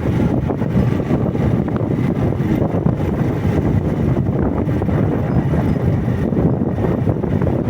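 Motorcycle running steadily on the move, with wind buffeting the microphone.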